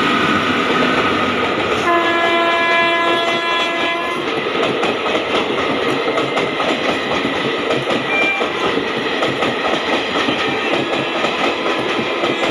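Indian Railways electric locomotive's horn blowing once for about two seconds, over the steady clatter of a passing express train's coaches on the rails.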